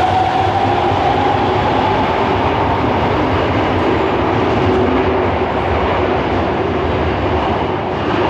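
Subway train running past the platform, with loud steady running and wheel noise. Its traction motor whine rises slowly in pitch over the first couple of seconds as the train picks up speed.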